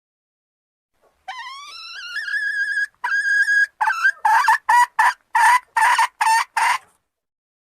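Junglefowl hen calling: a long call that rises in pitch and holds, a second shorter held note, then a run of about nine short, loud calls at roughly three a second, used as a lure to draw in a male.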